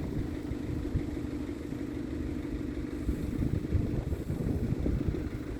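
Scania R tractor unit's diesel engine idling steadily, a constant low hum with a rumble underneath.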